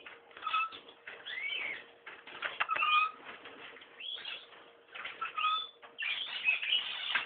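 Short bird chirps and whistled calls come again and again over an irregular, noisy rustling.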